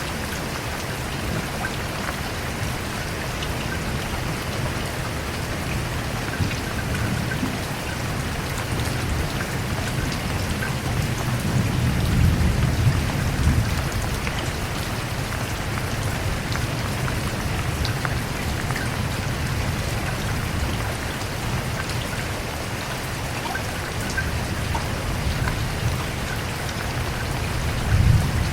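Steady rain falling and pattering on surfaces. A low rumble swells up about halfway through and again briefly near the end.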